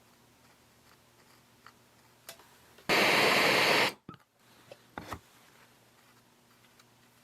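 Gas torch flame hissing loudly and evenly for about a second, then cutting off abruptly. A few light clicks and taps follow.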